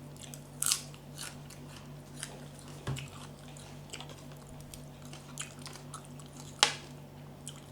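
A person chewing and biting into santol salad close to the microphone: a run of short crunches, with a sharp crunch just under a second in and the loudest one near the end.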